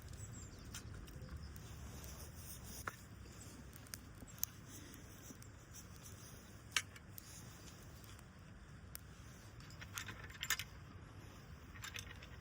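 Scattered light metallic clinks and taps of camp cookware and utensils being handled, with a cluster of them about ten seconds in, over a low steady background rumble.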